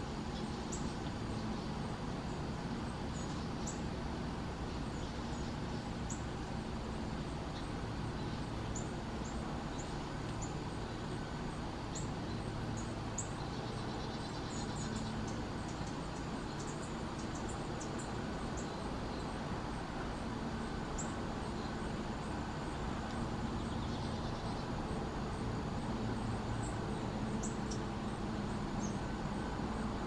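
Short, high bird chip notes, given singly and scattered over a steady low rumble.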